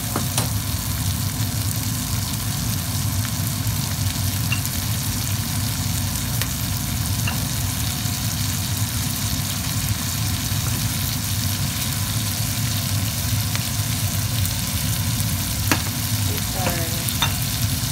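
Green beans frying in butter in a skillet: a steady sizzle with scattered small pops.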